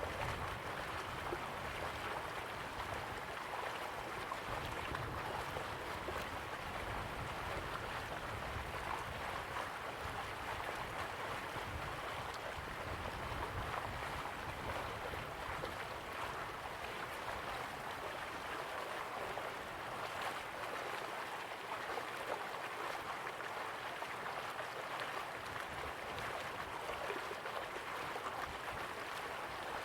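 River water flowing steadily, an even rushing with no breaks. A low rumble under it thins out after about twenty seconds.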